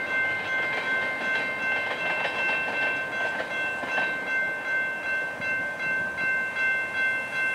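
Freight train of tank cars rolling away on the track, wheels rumbling and clacking over the rails in a pulsing rhythm about twice a second, with a steady high-pitched ringing over it.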